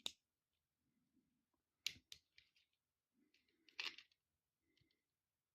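Near silence with a few faint, short clicks of small plastic building bricks being handled, about two seconds in and again near four seconds.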